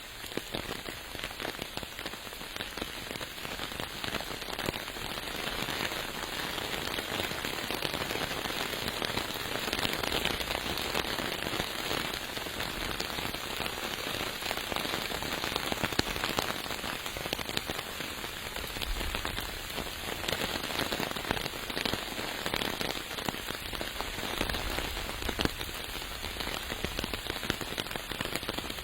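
Steady rain, with many separate drop hits close to the microphone.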